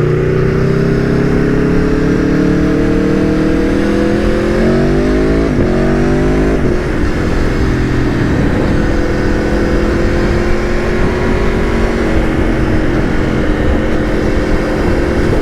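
Aprilia Tuono V4 1100's V4 engine pulling hard under acceleration, rising in pitch and dropping back with a couple of quick upshifts, then holding a steady cruising speed. Its loud exhaust runs over wind rush.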